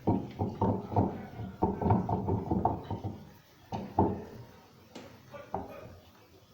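Repeated knocking and clattering of washing-machine parts being worked loose with a stone used as a hammer. It runs at about three or four knocks a second, then thins to a few single knocks.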